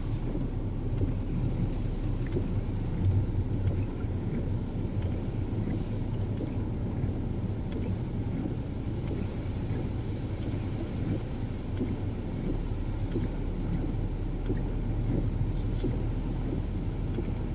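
Steady low rumble of a car being driven, heard from inside the cabin, with faint scattered ticks of rain.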